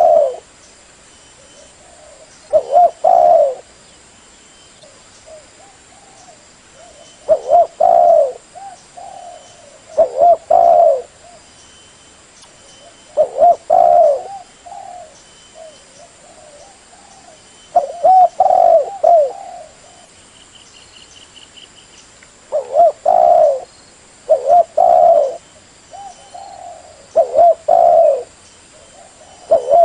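Spotted dove (tekukur) cooing: short phrases of low, wavering coos repeated about a dozen times, every two to five seconds.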